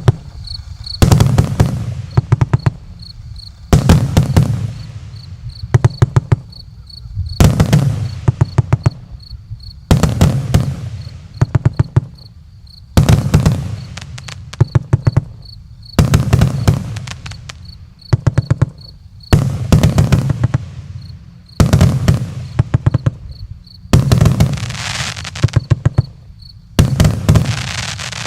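Fireworks going off in volleys about every three seconds. Each volley is a quick string of sharp bangs that fades into a rumble before the next.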